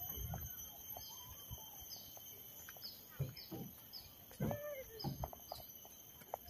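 Faint birdsong in trees: a bird repeating a short high chirp about twice a second, with a few other lower calls, over light footsteps on a boardwalk.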